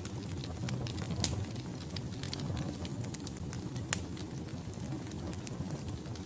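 Wood fire burning in a fireplace: a low steady rumble of flames with scattered crackles and pops from the burning logs, the sharpest about a second in and near the four-second mark.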